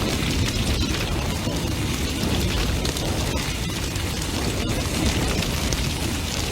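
Large bonfire burning intensely: a dense low rumble of flames with frequent sharp crackles and pops scattered throughout.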